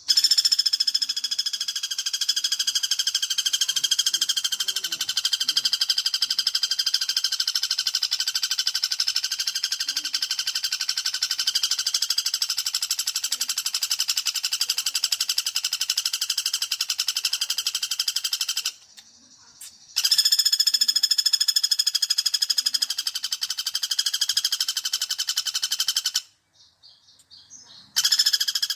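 Pelatuk bawang woodpecker lure call: a long, loud, very fast rattling trill at a steady pitch. It breaks off briefly about 19 s in and again near 26 s, then starts again near the end.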